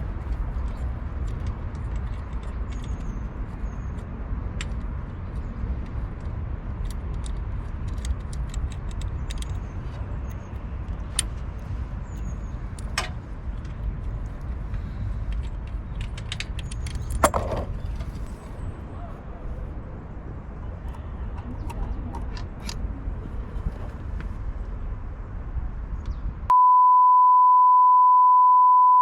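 A steady low rumble with scattered small clicks and taps. Near the end it cuts to a loud, steady single-pitch electronic beep tone.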